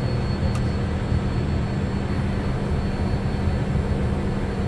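Steady cockpit noise of an Embraer Phenom 100 climbing just after takeoff: its twin turbofans at climb power and the rush of air, with a strong low hum and a faint high whine. A brief click sounds about half a second in.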